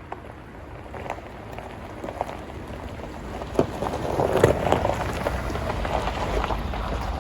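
Truck tires rolling over a gravel road, with many irregular crunches and pops of stones over a steady rumble, getting louder about four seconds in.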